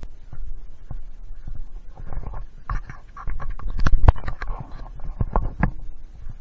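Footsteps and the rustle and scrape of brush against a handheld camera while walking a woodland trail, with a cluster of sharp snaps and scrapes in the middle.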